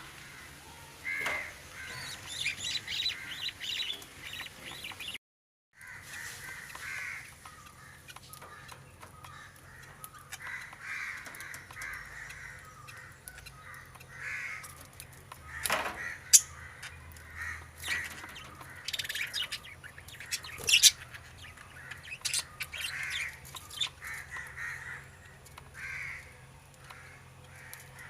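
Budgerigars chirping and chattering in short repeated calls, with several sharp clicks in between.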